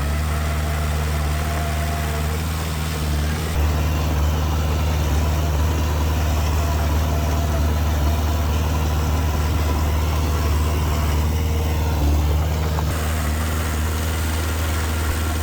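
Heavy diesel earthmoving engine running steadily with a low, even hum, the sound stepping up slightly about three and a half seconds in.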